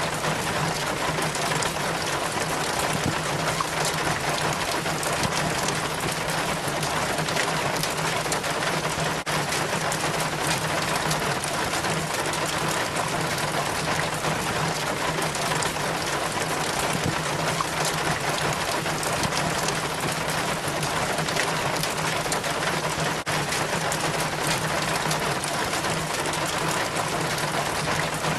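Rainwater trickling and splashing down a rain chain from the gutter in a steady, even stream.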